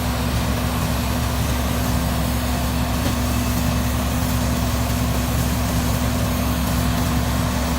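Engine-driven hydraulic log splitter running steadily, a constant engine hum with a strong low tone and no changes in speed.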